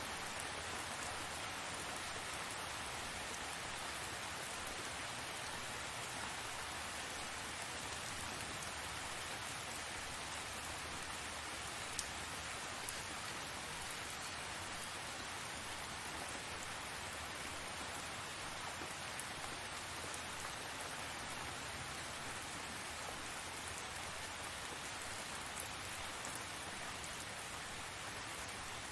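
Steady rain falling and pattering on surfaces, an even hiss with a few sharper drop ticks here and there.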